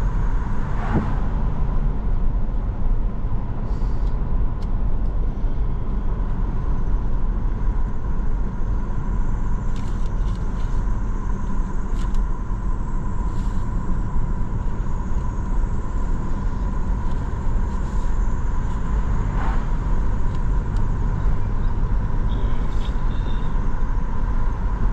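Steady road noise of a car driving at cruising speed, heard from inside the cabin: a low engine and tyre rumble with a faint steady high hum.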